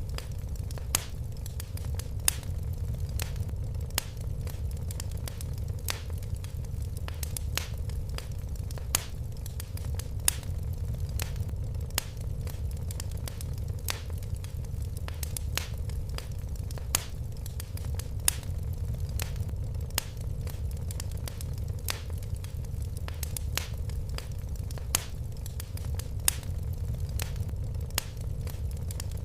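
Fire burning in a fireplace: irregular crackles and sharp pops, a few louder snaps among them, over a steady low rumble of the flames.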